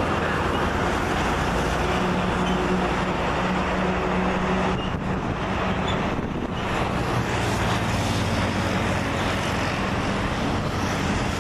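Jet engines of a Boeing 737 MAX 8 (CFM LEAP-1B turbofans) running, a steady rushing noise with a low hum beneath it.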